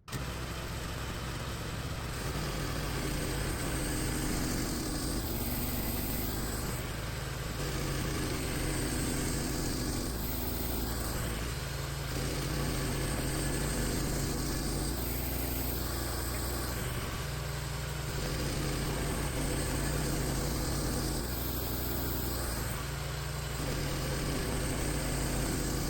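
Engine of a manual bandsaw sawmill's power head running steadily, its sound shifting every four to five seconds as the head works through the log.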